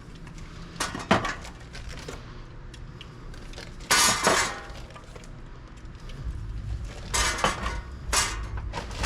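Glass bottles clinking and knocking together as they are handled, in several short bursts, the loudest about four seconds in.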